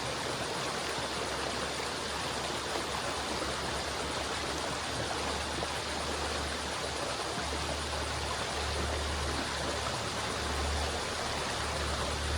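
River water flowing with a steady rushing sound. A low rumble underneath swells and fades, stronger in the second half.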